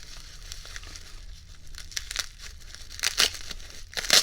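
Packing material crinkling and rustling as items are unwrapped from a box, with a few louder crinkles about two, three and four seconds in.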